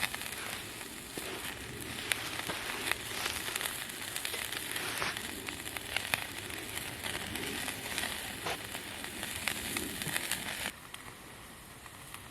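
Meat sizzling and crackling on a grill over charcoal, with many small pops. It drops off to a quieter hiss near the end.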